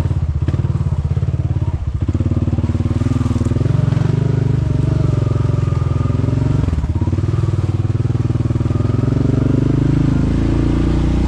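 Quad bike engine running under load, its pitch rising and falling with the throttle, with a few short knocks.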